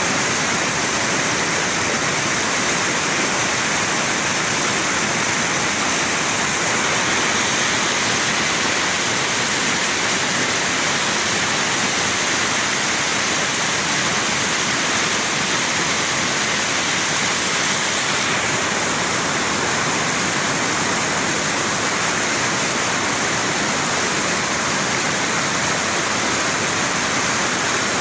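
Flash floodwater from a tropical storm rushing past in a steady, loud, unbroken roar of water.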